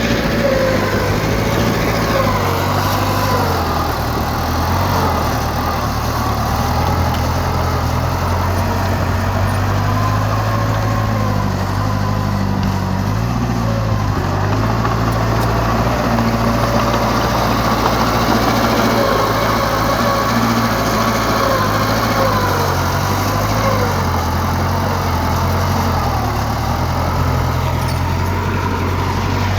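Heavy earthmoving machinery's diesel engine running continuously, its pitch wavering slightly up and down.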